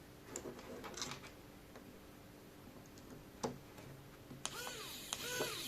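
Small plastic clicks as the servo and screws are handled, then about 4.5 s in a small electric screwdriver starts up with a motor whine, driving in a servo mounting screw.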